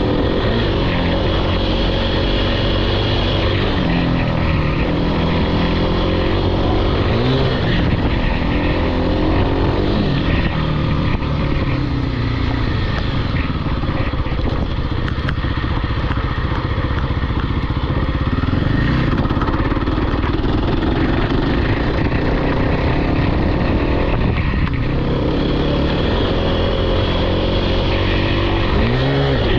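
Off-road vehicle engine running hard under riding, its pitch rising and falling as it is revved and shifted, with quick upward revs about a quarter of the way in and again near the end.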